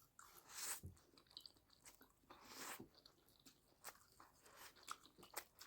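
Faint eating sounds: close-up chewing with small wet clicks, and two short hissing swishes about half a second and two and a half seconds in.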